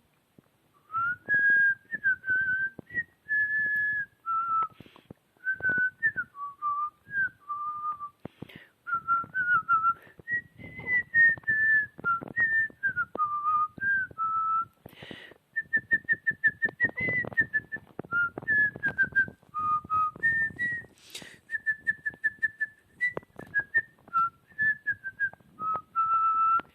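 A person whistling a tune by mouth, phrase after phrase of short and held notes with brief pauses between them.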